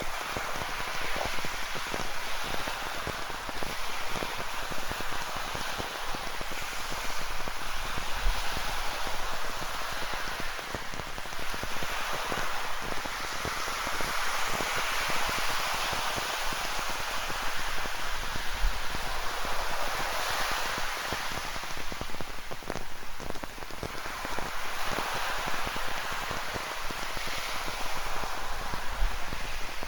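Steady rain with many close drops ticking, over ocean surf that swells and ebbs every several seconds.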